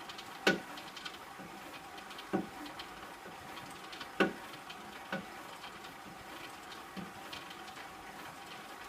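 Kettler CTR3 cross trainer in use, giving sharp clacks at uneven intervals, about five of them, the loudest about half a second in and just after four seconds. The owner hears these clacks even though both pendulum ball bearings have been replaced.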